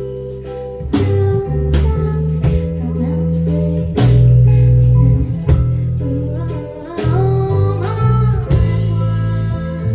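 Live band music: bass guitar, guitar and drums, with a woman singing over them.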